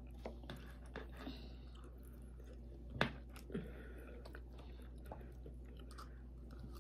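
Two people chewing food close to the microphone, with soft mouth sounds and scattered faint clicks of forks, one sharper click about three seconds in.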